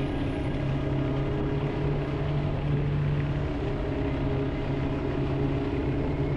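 Regulmoto Alien Monster 300 motorcycle engine running at a steady pitch, a constant low drone with no revving.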